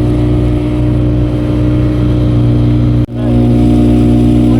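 Safari boat's engine running steadily at an even pitch, heard from aboard; the sound briefly cuts out a little after three seconds, then resumes.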